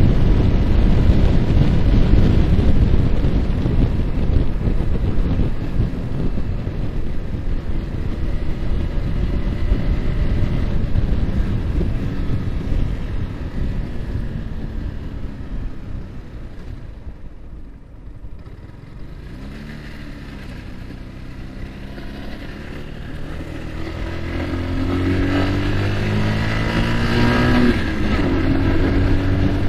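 Wind rushing over the microphone from a Yamaha R15's single-cylinder engine at speed, fading as the motorcycle slows, then the engine note climbing as it accelerates again, with a sudden drop in pitch near the end as it shifts up a gear.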